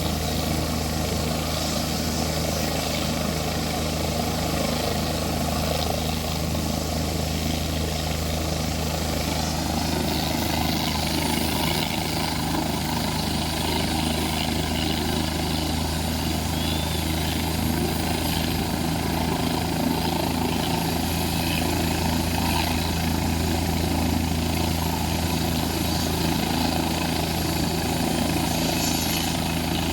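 Helicopter engine and rotor running steadily, a continuous drone that holds an even level and pitch.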